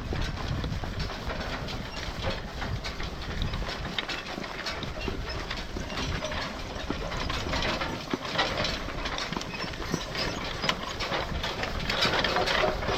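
A team of draft horses pulling a horse-drawn farm implement: a continuous rattling clatter of the rolling implement and its metal parts, with hooves on the ground and a low rumble.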